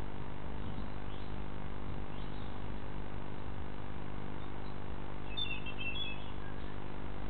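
Steady low hum and hiss in the recording, with a brief cluster of short, high bird chirps about five seconds in.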